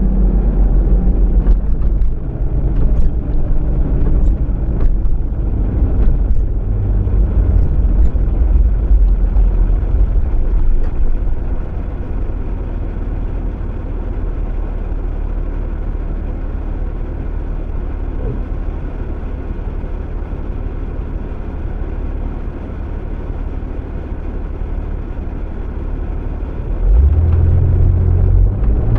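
Steady low rumble of a car's engine and tyres heard inside the cabin while driving. It eases off a little about twelve seconds in and grows louder again near the end, with a few faint ticks in the first several seconds.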